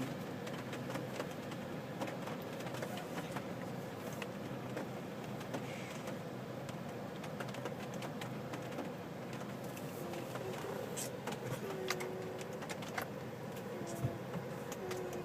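Car running, heard from inside the cabin: a steady rumble and hiss with scattered small clicks and taps.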